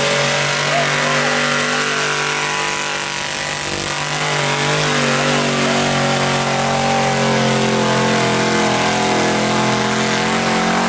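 Engine of a big-tire mud racing truck running at high revs through the mud pit. Its pitch sags briefly about three seconds in, then climbs back and holds steady.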